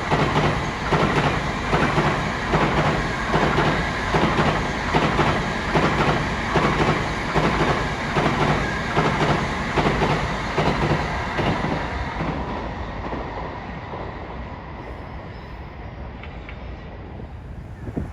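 Doctor Yellow shinkansen inspection train passing at speed, its wheels giving a steady rhythmic clatter that fades away as it goes by over the last several seconds.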